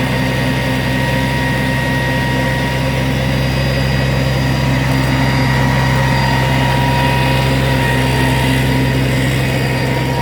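Log truck's diesel engine running steadily at an unchanging speed.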